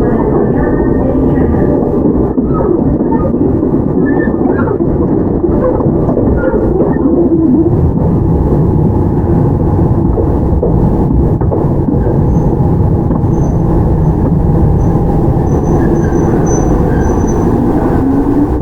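On-board running sound of a Toyama Chiho Railway 17480 series field-chopper electric train (ex-Tokyu 8090 series) under way: steady rumble of the wheels on the rails and the running gear, with a tone rising near the end.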